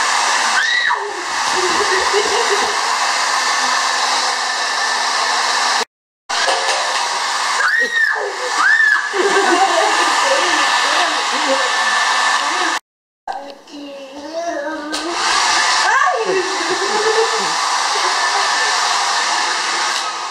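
Electric hair dryer blowing steadily, a constant rush of air with a motor hum; the sound cuts out abruptly twice, for a moment each, about six and thirteen seconds in. Brief rising-and-falling vocal sounds from a baby come over it now and then.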